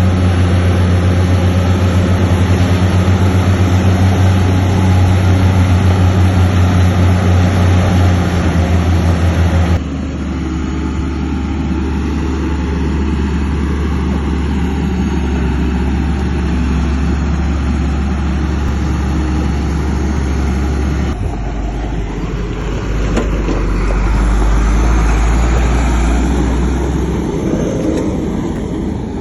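Heavy diesel engines of earthmoving machines running steadily, the sound changing abruptly about ten seconds in and again about twenty seconds in. Near the end the engine note swells briefly louder, then eases off.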